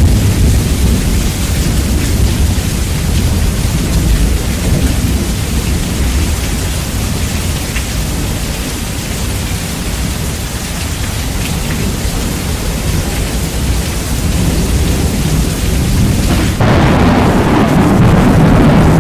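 Heavily bass-boosted rain with rumbling thunder, loud and distorted, a dense deep roar of noise. About three-quarters of the way through the sound changes abruptly and gets louder, the hiss dulling and the rumble thickening.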